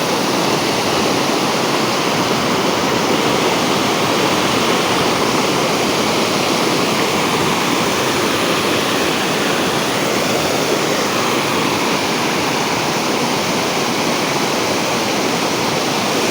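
Loud, steady rush of water, an even roar with no breaks.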